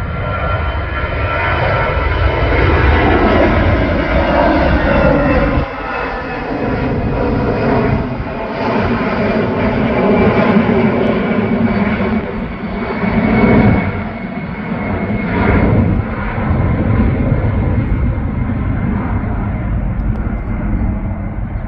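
Aircraft engines passing close by: a steady whine over a deep rumble, its pitch falling as the plane goes past.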